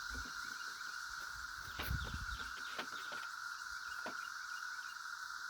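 A chorus of cicadas drones steadily. A short clatter of knocks comes about two seconds in, and a single click near four seconds.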